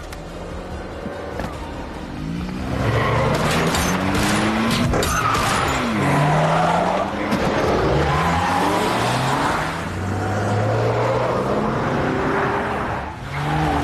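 Car engines revving up and down with tyres squealing, loud and busy from about three seconds in.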